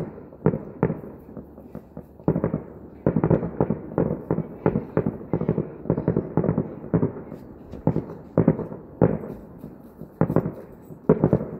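Distant aerial fireworks bursting in a rapid, uneven run of bangs, each trailing a short echo, thickest from about three to six seconds in.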